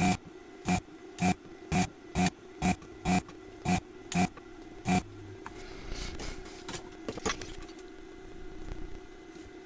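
A run of about ten sharp mechanical clicks, evenly spaced at about two a second, stopping about five seconds in, over a steady low hum. Fainter, irregular scraping and clicking follows.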